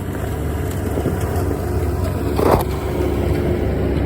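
4x4 engine running steadily under load while climbing a rocky track, with one brief knock or scrape about two and a half seconds in.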